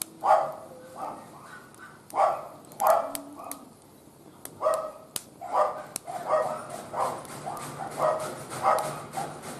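A dog barking over and over in short barks, about two a second, pausing briefly around four seconds in. Sharp faint crackles from the wood fire sound underneath.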